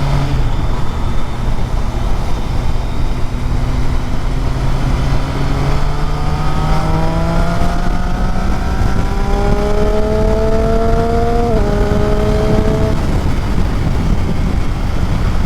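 Motorcycle engine pulling hard under a loud rush of wind on the microphone. Its note climbs steadily for several seconds, drops sharply with a gear change about three-quarters of the way through, then fades back into the wind.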